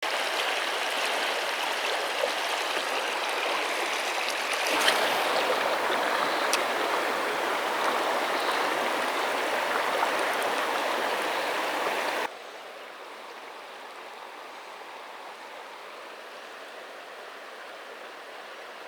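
River water rushing steadily. About twelve seconds in it drops suddenly to a quieter, softer rush.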